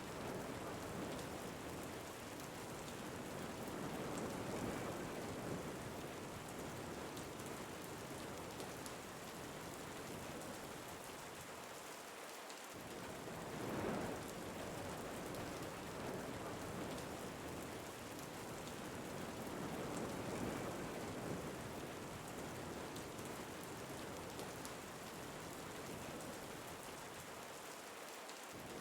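Steady rain falling on a surface, with wind swelling and easing every several seconds.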